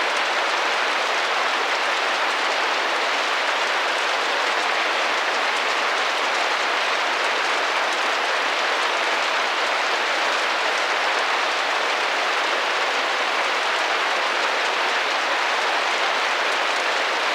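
Gentle rain tapping against a window pane, heard as a steady, even hiss.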